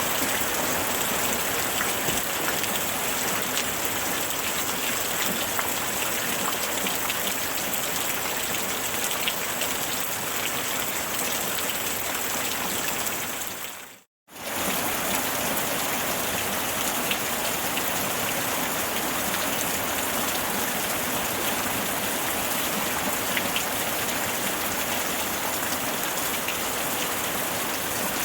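Steady rain falling, with many small drops ticking on a surface. About halfway through it fades out to silence for a moment and comes straight back.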